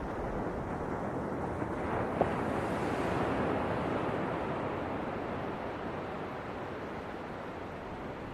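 Ocean waves washing in, a swell building about two seconds in and slowly ebbing away afterwards. A brief click sounds just after the swell begins.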